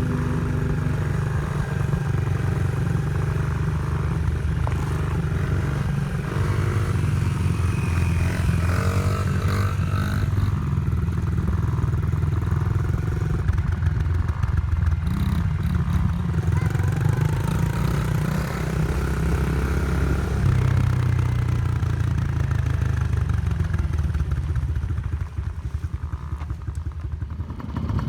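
Dirt bike engine running under way, its pitch rising and falling as the throttle changes, briefly quieter near the end.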